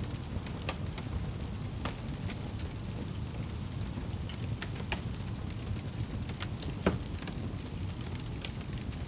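Wood fire burning in a fireplace: a steady low rumble with scattered crackles and pops, the loudest pop about seven seconds in.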